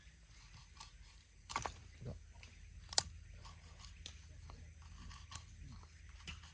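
Scattered light clicks and knocks, with a soft thud about a second and a half in and one sharp click about three seconds in.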